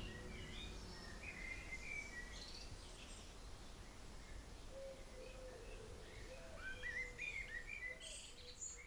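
Faint outdoor birdsong: scattered short chirps and warbling phrases over a low background hiss, busiest about seven seconds in.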